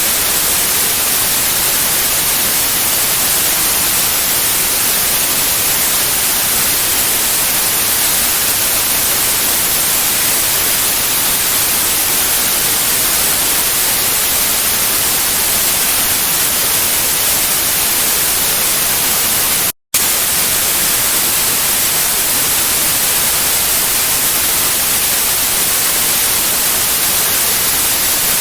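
Steady, loud white noise hiss, even and unchanging, that drops out to silence for a split second about twenty seconds in and then resumes.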